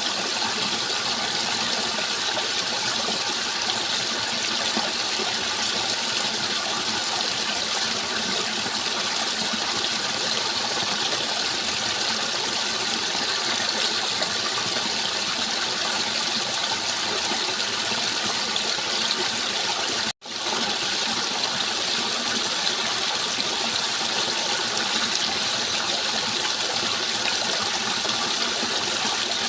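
Rushing water running steadily with an even hiss, cutting out for a split second about two-thirds of the way through.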